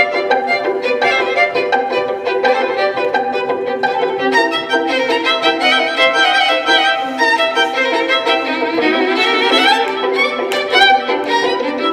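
Violin music, a quick passage of many short notes with several pitches sounding together.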